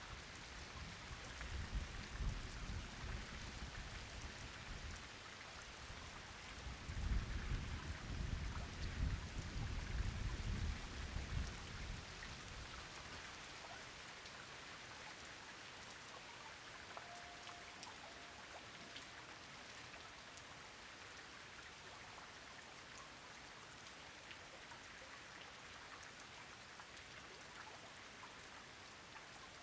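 Heavy rain falling steadily on a pond, a dense even patter of drops. A deep low rumble swells up twice in the first twelve seconds, the second one louder, then dies away, leaving only the rain.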